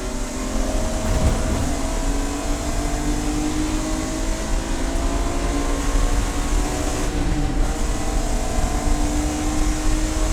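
Race car engine pulling hard, its pitch climbing steadily, with a gear change about seven seconds in and then climbing again, over a constant rumble of road and wind noise.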